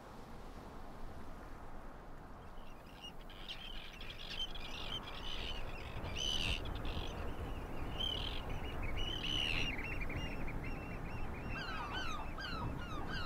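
Birds calling: scattered chirps that start a few seconds in, then a fast run of repeated falling calls near the end, over a steady background hiss.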